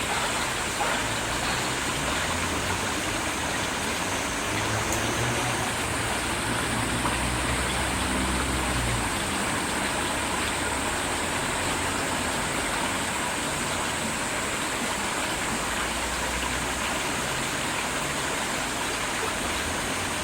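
Steady rush of flowing river water. A low rumble swells and fades under it around the middle and again later.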